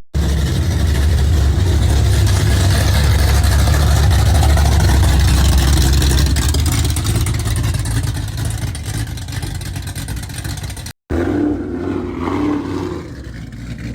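A car's loud engine and exhaust, at its loudest for the first several seconds and then fading away. After a brief cut near the end, quieter engine noise.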